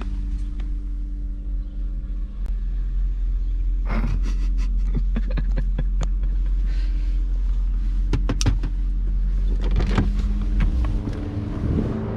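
Car engine running at idle, a steady low rumble, with scattered clicks and knocks from about four seconds in.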